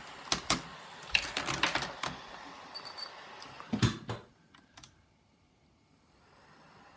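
Sharp plastic clicks and taps from handling a laptop's case and small parts, with a cluster in the first two seconds and a heavier knock about four seconds in.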